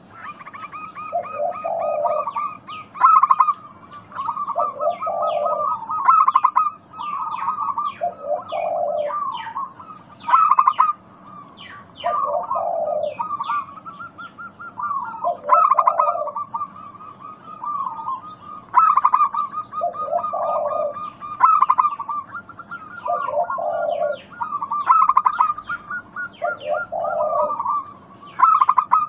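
Zebra doves (perkutut) cooing, several birds overlapping. Each phrase is a low coo followed by a rapid rolling trill, repeated every few seconds.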